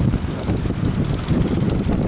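Strong sea wind buffeting the microphone in an uneven low rumble, with a brief click about half a second in.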